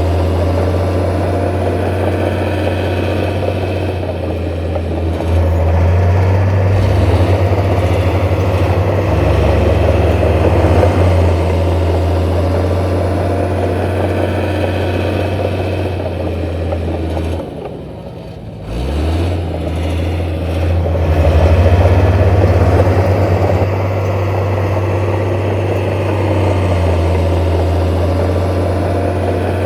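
Heavy construction machine's diesel engine running steadily. About two-thirds of the way through it dips in revs and level, then picks back up again.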